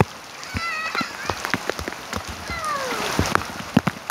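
Rain falling steadily, with individual drops splattering in quick, irregular clicks.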